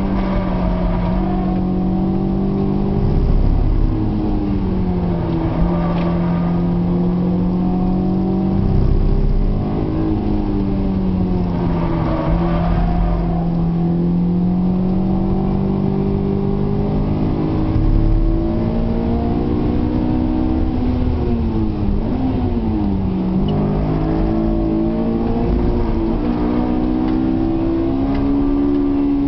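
Honda S2000's four-cylinder VTEC engine heard from inside the cabin at track pace, its pitch holding, dropping and climbing again several times as the driver lifts, changes gear and accelerates through corners.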